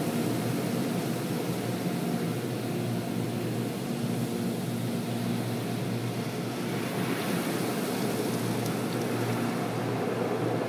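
Automatic car wash running, heard from inside the car: a steady hiss of spraying water over a hum of machinery. The hiss eases a few seconds in and swells again after about seven seconds.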